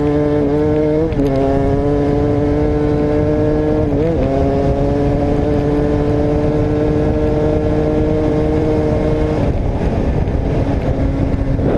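Motocross dirt bike engine under hard throttle, its pitch dipping briefly with gear changes about a second in and about four seconds in, then holding one long steady pull. About nine and a half seconds in the throttle closes and the engine note drops back into rough noise.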